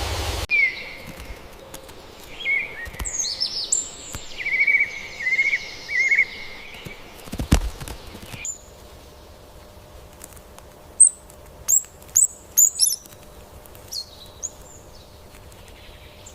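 Small birds calling: a run of warbling chirps in the first half, then a few short, sharp high chirps in the second half, with a single thud about halfway through.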